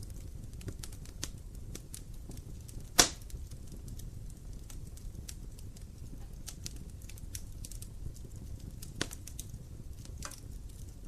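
Wood fire burning in a fireplace: a low steady rumble of flame with scattered crackles of burning logs, and one loud sharp pop about three seconds in and a smaller one near nine seconds.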